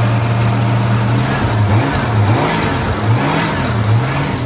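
Carbureted engine of a 1982 Jeep Wagoneer Laredo on a cold start after sitting, idling steadily and then revved up and down several times in quick blips. A belt squeal from the engine runs underneath: the belt squeaks because the engine has not been run in a while.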